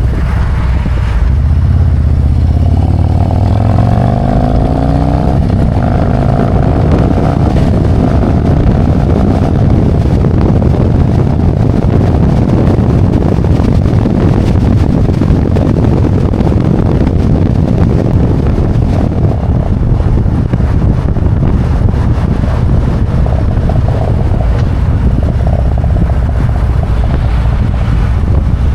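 Harley-Davidson Road Glide's V-twin engine accelerating, its pitch rising for a few seconds about a second in, then running steadily at road speed with wind rushing over the microphone.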